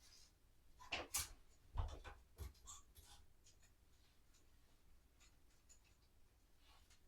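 Quiet handling sounds of clothes being sorted: a few soft knocks and rustles in the first couple of seconds, then faint scattered rustling.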